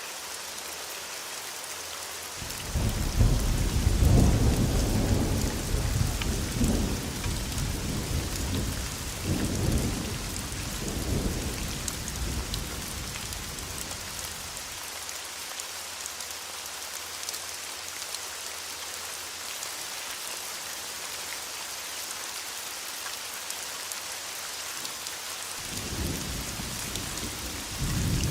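Steady heavy rain hissing on surfaces, with a long roll of thunder about two seconds in that rumbles for some ten seconds, loudest at the start and dying away in waves. A second thunder rumble begins near the end.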